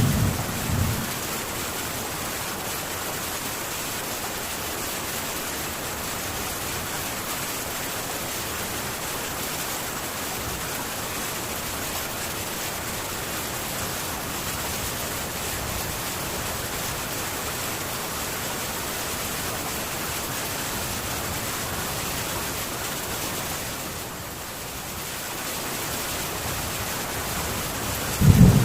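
Heavy rain drumming steadily on a metal tin roof, an even hiss with no thunder, dipping briefly a little before the end. The last rumble of thunder fades in the first second.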